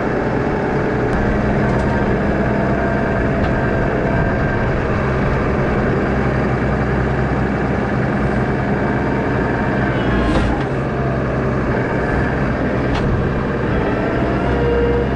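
Farm tractor engine running steadily under work, with a metallic knock about ten seconds in and a lighter click a few seconds later.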